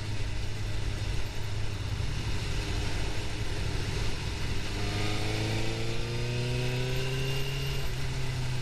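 Suzuki GSX-R750 inline-four engine pulling under way, its revs climbing steadily from about halfway through, then levelling off near the end, under a steady rush of wind.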